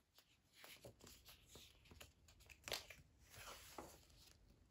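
Near silence with a few faint, soft rustles of paper, the loudest about two and a half seconds in: a book page being turned.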